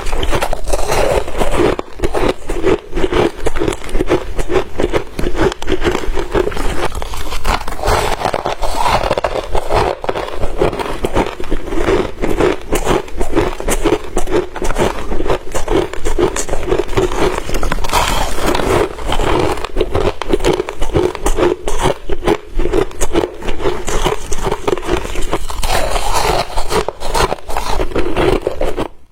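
Crushed ice being bitten and crunched in the mouth close to the microphone: a continuous run of dense crackling crunches.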